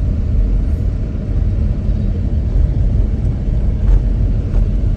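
Steady low rumble of a moving car: engine and tyre noise while driving.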